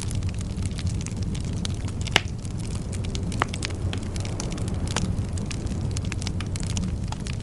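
Bonfire burning with a steady low rumble and irregular crackles, with one loud pop about two seconds in and another about three and a half seconds in.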